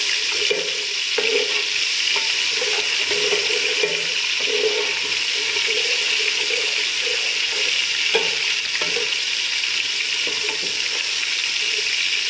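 Ginger-garlic paste sizzling in hot oil, stirred with a slotted metal spoon that scrapes the metal pot in steady, repeated strokes.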